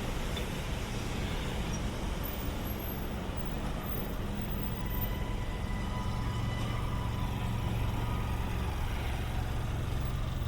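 City street traffic: a steady wash of vehicle engines and tyres. A heavy vehicle's low engine drone grows stronger about halfway through, with a faint whine above it.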